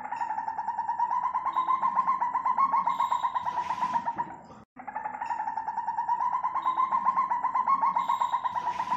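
Civet call sound effect: a rapid, pulsing trill held for about four and a half seconds. It cuts off suddenly and starts again the same way, as a looped recording.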